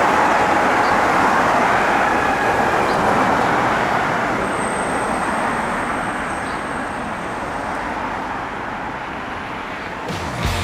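City street traffic noise, an even rush of passing vehicles that slowly gets quieter.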